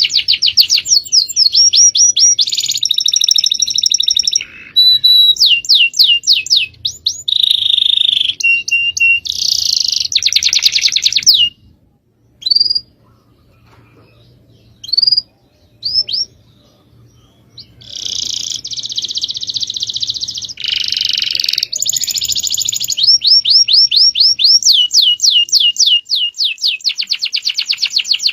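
Songbirds singing high-pitched, rapid trills and fast rows of short rising notes, dropping to a few scattered single chirps for several seconds in the middle before the fast trilling resumes.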